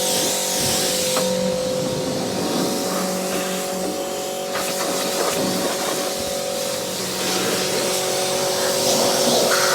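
Pressure washer running: a steady motor-and-pump hum under the spray noise of the water jet.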